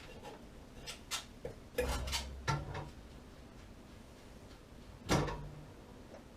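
Hard objects being handled, clinking and knocking: a quick cluster of clicks and knocks about a second or two in, and one louder knock near the end.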